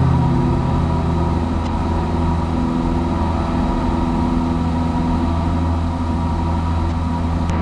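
Cessna 172S's four-cylinder Lycoming IO-360 engine and propeller droning steadily in the climb just after takeoff.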